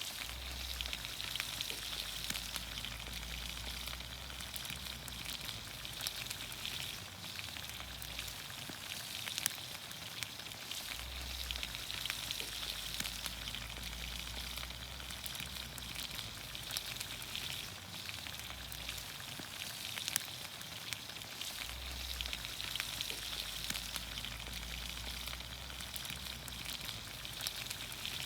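Green beans, onions, carrots and potatoes cooking in olive oil over a campfire, sizzling steadily, with scattered pops and crackles throughout.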